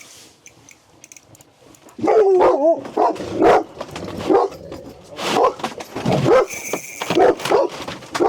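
A dog barking repeatedly, starting about two seconds in, some of the barks drawn out into wavering, whine-like yelps.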